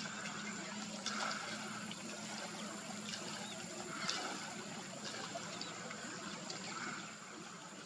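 Outdoor wetland ambience: water trickling, with soft calls repeating every second or two and a few faint clicks.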